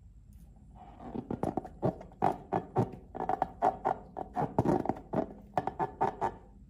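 Slime being squeezed and worked by hand, giving a fast, irregular run of short wet clicks and squelches that starts about a second in.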